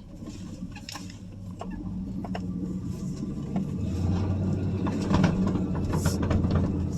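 The 1985 Chevrolet C10's 305 small-block V8 running, getting louder about four seconds in, with scattered light clicks and rattles over the steady hum.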